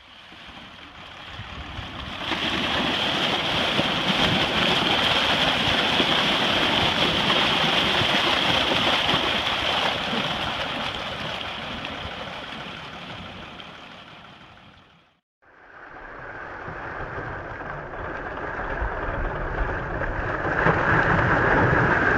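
Steady rushing noise of a heavy truck on the move, fading out and then building up again after a break.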